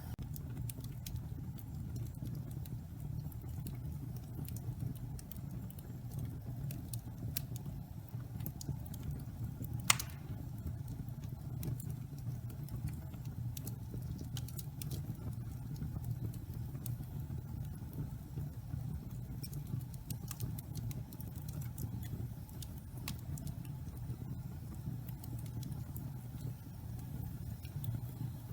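Damp pine logs burning in a fireplace: a steady low rumble of the fire with scattered small crackles and one loud pop about ten seconds in.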